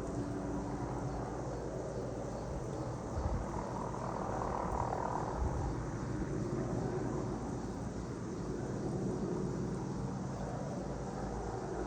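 Distant helicopter running with a steady drone. Two brief low thumps come about three and five and a half seconds in.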